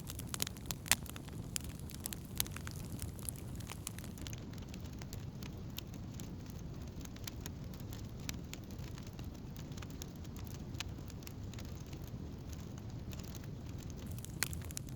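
Campfire of burning wood crackling, with sharp pops scattered through, more of them in the first few seconds, over a low steady rumble.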